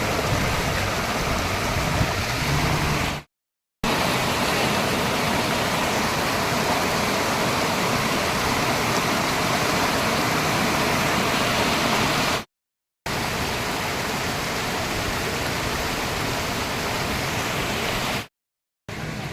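Steady rushing roar of swollen floodwater pouring through dam outlets and down a river in spate, cut into several stretches by brief gaps of silence.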